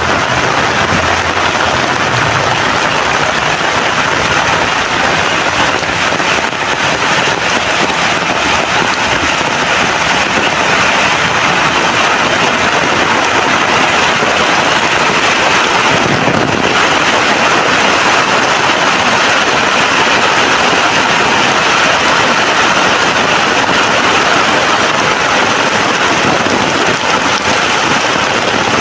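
Heavy rain pouring steadily, a dense, even hiss of drops.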